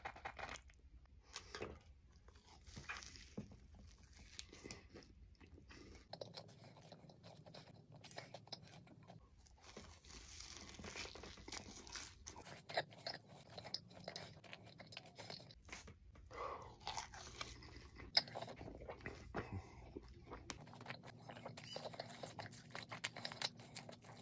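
Close-up biting, crunching and chewing of a Korean corn dog with a crisp red crumb coating and hot sauce, many irregular sharp crunches.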